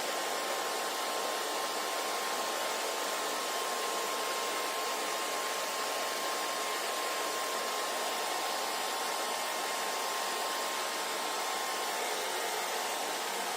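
Hair dryer running steadily, a constant rushing blow of air with a faint steady whine that drops away near the end.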